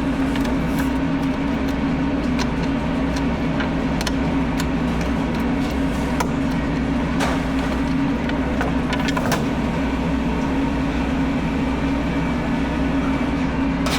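A steady machine hum with scattered sharp clicks.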